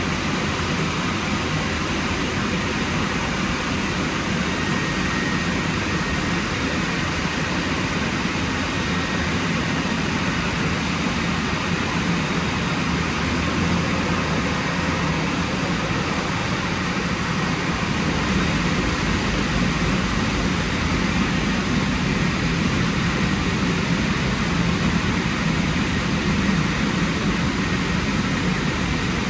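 WashTec SoftCare Pro car wash's drying blowers running: a steady, loud rush of air with a low hum that grows stronger about two-thirds of the way through.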